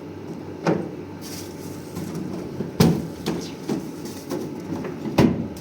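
A few scattered knocks and clunks, the loudest about three seconds in and another near the end, over steady low background noise.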